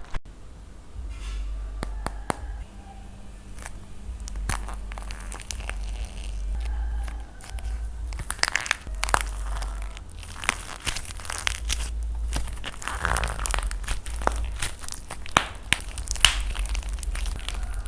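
Dried plaster clay being crushed and cracked by hand: a run of crunches and sharp crackles, sparse at first and much denser from about halfway through.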